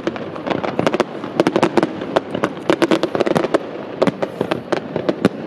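Fireworks display: a rapid, irregular barrage of sharp bangs and crackles from bursting shells, several reports a second.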